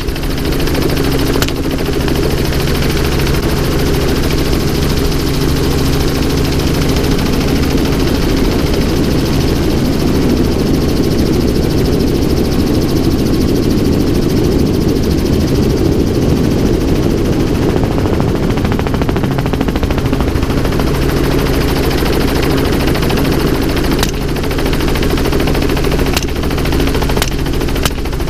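Helicopter running steadily with its low, droning rotor and engine noise, with a single gunshot about a second in and several more shots in the last few seconds.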